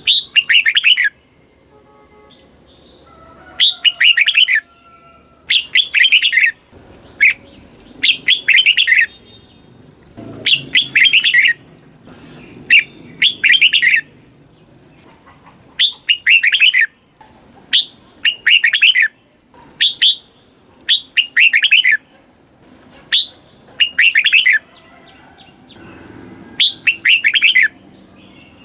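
Red-whiskered bulbul singing: short, loud phrases of rapid warbling notes, repeated every second or two.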